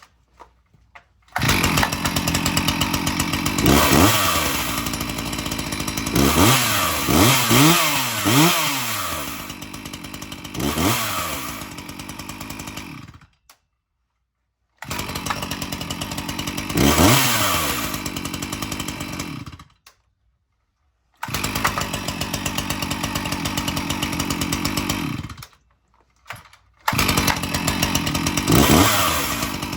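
Two-stroke gasoline chainsaw engine running, its throttle blipped into repeated revs that rise and fall, in several stretches broken by sudden silent gaps.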